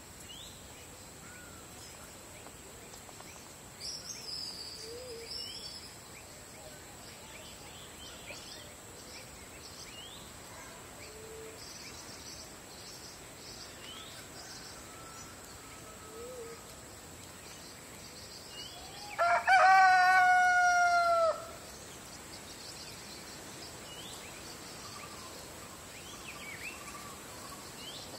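A rooster crows once, loud, about two-thirds of the way through: a single cock-a-doodle-doo lasting about two seconds. Small birds chirp faintly around it over a steady high-pitched tone.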